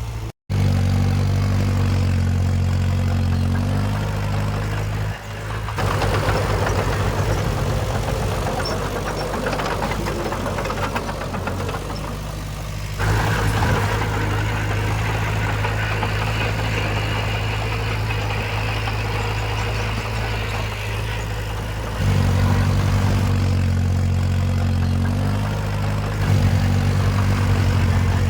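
Diesel engines of earthmoving machinery, a bulldozer and dump trucks, running steadily. The sound shifts abruptly several times between a low, even engine note and a noisier, busier stretch.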